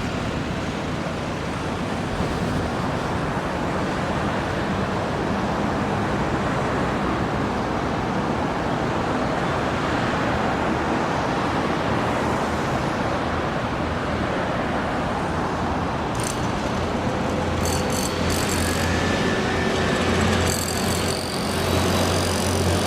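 Steady road traffic noise from passing vehicles. Later, a low steady hum and a few sharp clicks join it.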